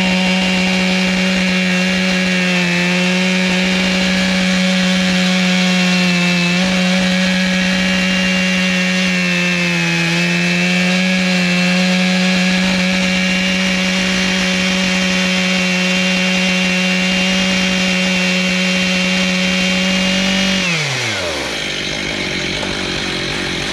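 Two-stroke chainsaw held at steady full throttle, ripping lengthwise through a butternut log on an Alaskan chainsaw mill. About 21 seconds in the throttle is released and the engine drops quickly to idle.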